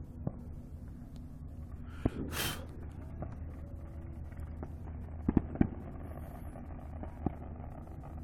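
Scattered firework pops: a crack and a short hiss about two seconds in, then three quick sharp pops a little after five seconds and one more crack near the end, over a steady low rumble.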